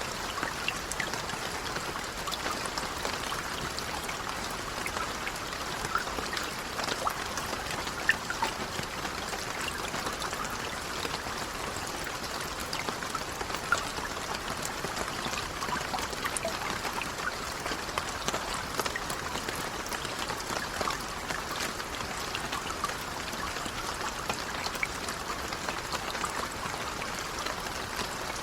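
Light rain falling steadily, a soft even hiss dotted with many small individual drop ticks.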